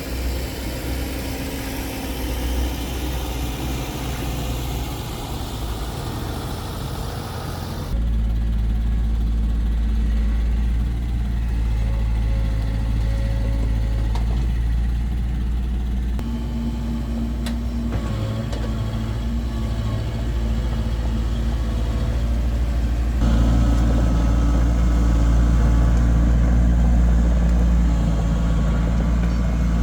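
Diesel engine of heavy earthmoving machinery, an excavator or dump truck, running steadily with a low hum. The sound changes abruptly twice, about 8 and 23 seconds in, getting louder each time.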